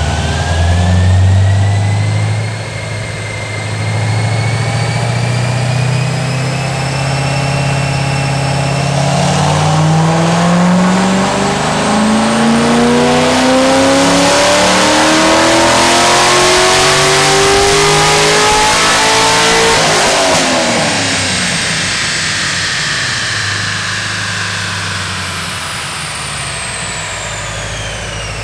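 2013 Corvette 427's 7.0-litre LS7 V8, fitted with heads, headers and a tune but a stock cam, making a wide-open-throttle pull on a chassis dyno. The revs climb, slowly at first and then steeply for about ten seconds. It then lets off sharply and winds down as the rollers coast, with a rising and falling whine from the rollers or drivetrain.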